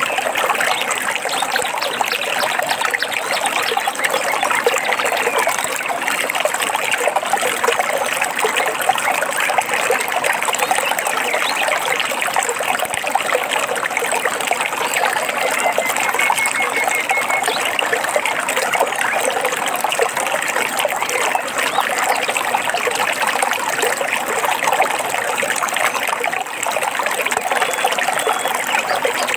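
Water of a small stream trickling and babbling steadily.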